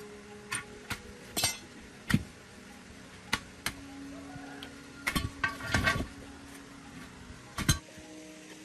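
Metal tools and parts clinking and knocking: about a dozen irregular sharp metallic strikes, several with a brief ring, bunched together around the middle.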